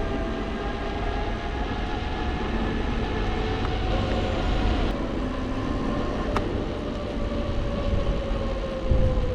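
Electric bike riding along: a faint hub-motor whine slowly falling in pitch over rumbling wind and tyre noise, with a couple of brief clicks.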